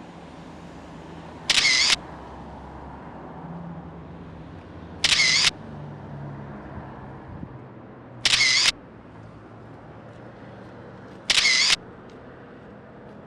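A camera shutter sound, four identical loud clicks about three seconds apart, over a steady low background rumble.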